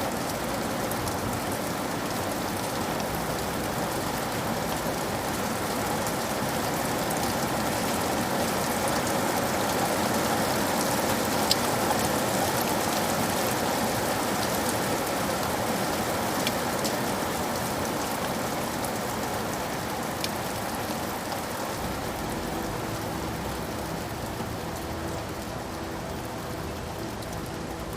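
Steady rain falling on surfaces, a dense even hiss with scattered individual drops ticking through it, swelling slightly in the middle and easing a little toward the end.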